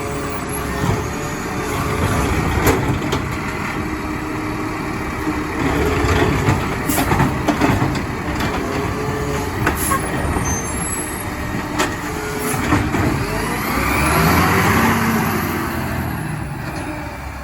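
Mack LR garbage truck with a McNeilus ZR automated side loader working at the kerb: the engine runs steadily, with several sharp metallic knocks. Near the end the engine swells and falls away with a hiss of air.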